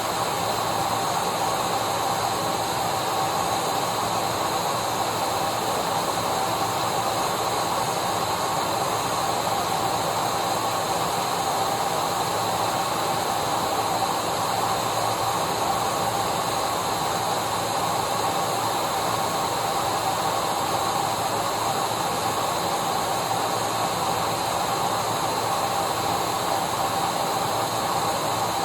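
Electric vacuum cleaner running steadily: a constant rush of air with a steady high whine over it, unchanging in pitch and level.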